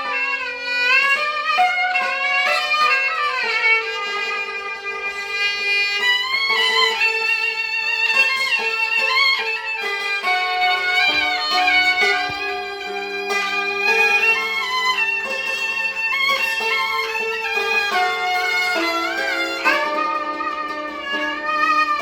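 Gaohu and yangqin playing a Cantonese-style duet: the gaohu carries a high melody with slides and vibrato over the yangqin's lower struck and rolled notes.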